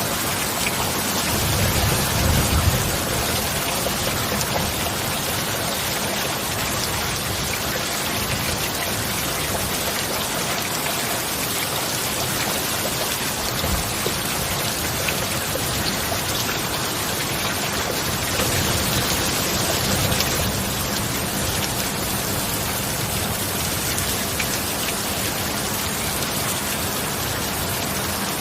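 Steady heavy rain falling. Two brief low rumbles of distant thunder come through it, about two seconds in and again about nineteen seconds in.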